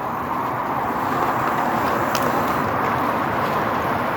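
Steady rushing noise of riding along on e-bikes: tyres rolling and wind over the microphone, with one short click about two seconds in.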